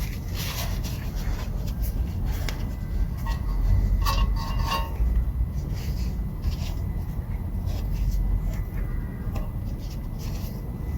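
Scraping, rubbing and small clinks of a dirty diesel fuel-pump part being scrubbed and handled, over a steady low rumble, with a brief squeak about four seconds in.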